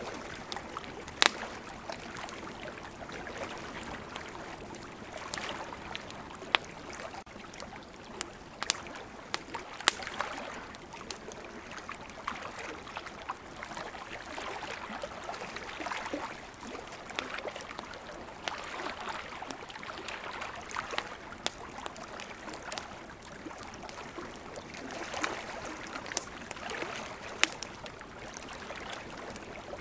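Campfire crackling, with sharp pops every second or two and a few louder snaps, over a soft, swelling wash of sea waves.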